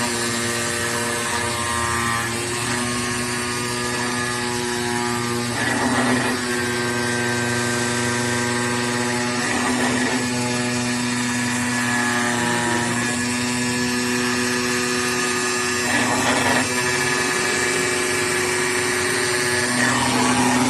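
Router spindle of an AOKE DCZ76 flatbed CNC cutter running with a steady high whine while it cuts, with a few short harsher patches as the cut goes on.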